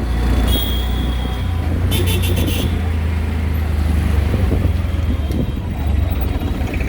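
Riding in an auto-rickshaw through street traffic: a steady low engine and road rumble. A brief high-pitched sound comes about two seconds in.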